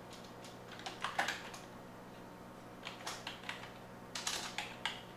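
Typing on a computer keyboard in three short bursts of key clicks, about a second in, around three seconds in and near the end.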